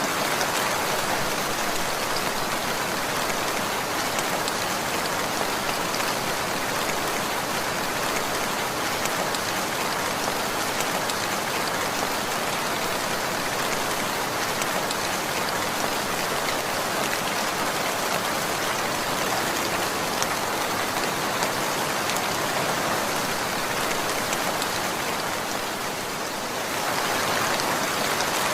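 Steady rain falling on a surface, a dense patter of many drops with no pauses.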